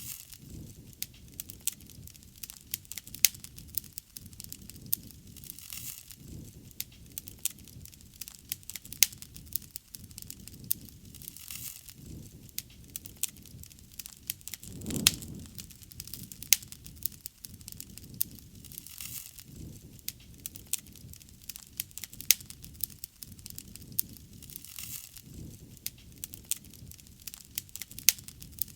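Wood bonfire crackling, with frequent sharp pops and snaps over a low rush of flames. The rush swells briefly about halfway through.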